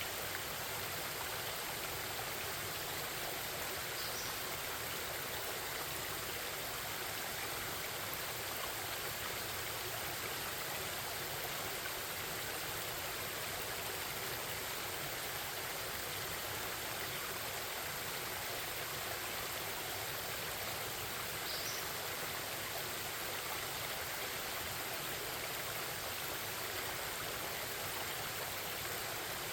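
A forest stream babbling steadily over rocks. Two brief high bird chirps stand out, one about four seconds in and one about twenty-one seconds in.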